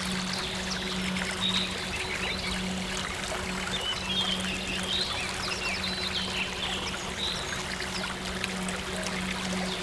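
Running water from a stream, a steady rush, with small birds chirping high and briefly now and then, over a low, steady held synth drone.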